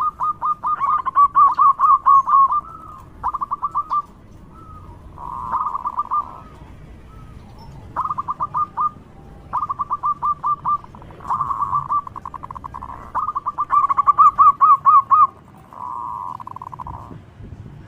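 Zebra dove (perkutut) calling: bouts of rapid, short, falling cooing notes, about seven or eight a second, each bout lasting one to two seconds with brief pauses between. Twice the notes run together into a blurred trill.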